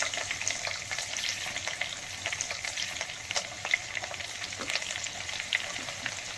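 Freshly added chopped onions frying in hot sesame oil with cumin seeds, fennel and green chilli: a steady crackling sizzle with many small pops, loudest right at the start and then settling as they are stirred in the pan.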